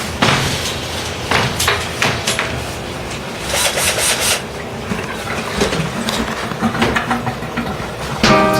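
Irregular knocks, clatter and scraping from tools and materials being handled during repair work. Music with guitar comes in near the end.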